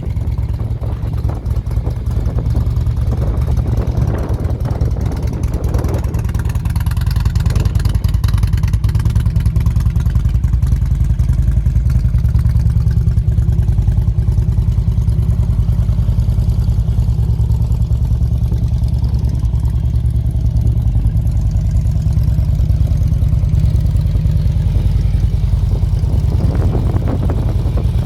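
2006 Harley-Davidson Road King's air-cooled Twin Cam 88 V-twin running through Vance & Hines aftermarket exhausts: a steady, deep exhaust note that gets a little louder about six seconds in.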